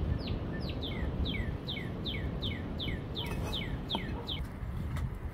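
A songbird repeating a short falling chirp about three times a second, stopping near the end, over a steady low rumble.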